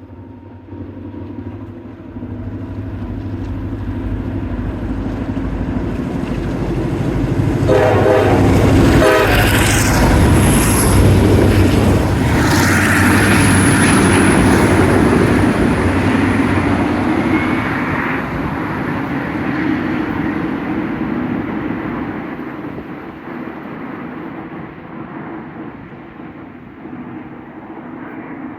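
CSX freight train with two diesel locomotives approaching and passing close by, the engine rumble building to a peak and then fading as the cars roll on with wheel clatter. A short horn blast sounds about eight seconds in, and a thin high-pitched squeal rides over the passing cars for several seconds.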